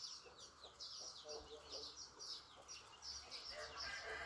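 Chickens in a flock peeping: a quick run of high, falling chirps several times a second, with a few lower calls among them.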